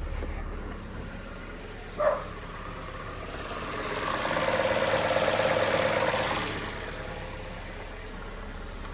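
Suzuki Swift's four-cylinder engine idling evenly on a new ignition coil, with the cylinder 4 misfire cured. A brief sharp sound comes about two seconds in, and the sound swells louder for a few seconds in the middle.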